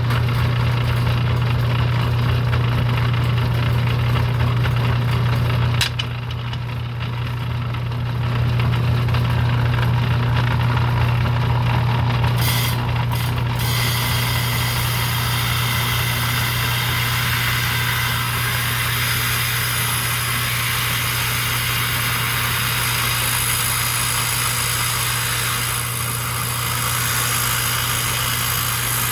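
Vintage rock trim saw running with light mineral oil, its blade cutting through red jasper: a steady motor hum under a gritty cutting noise. A single click comes about six seconds in, and the cutting noise grows brighter and hissier about halfway through.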